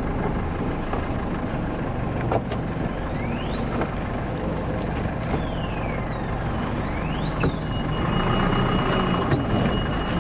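A truck running with steady engine and road rumble on a rough road, with a couple of sharp knocks and high squeaks that rise and fall. About eight seconds in, a steady high tone comes in.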